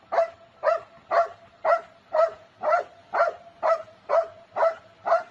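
A dog barking over and over at an even pace, about two barks a second, with a faint steady tone underneath.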